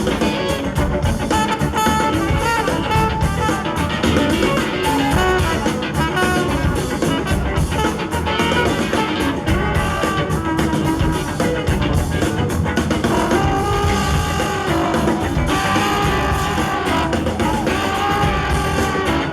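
A large live band playing funk-rock, with drums, bass and electric guitar and held melodic lines over the top.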